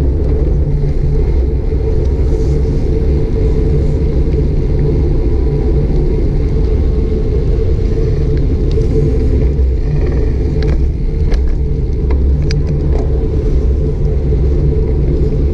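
Wind buffeting the microphone of a GoPro Hero 5 Black on a moving bicycle: a loud, steady low rumble, with a few faint ticks in the second half.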